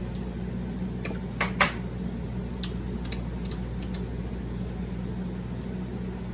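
Eating sounds while gnawing short-rib meat off the bone: a few sharp clicks and clinks, the loudest about a second and a half in, then fainter ticks, over a steady low hum.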